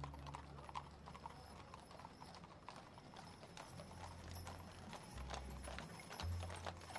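A horse's hooves clip-clopping in a steady series of sharp clicks, with low bass music notes coming in about halfway through.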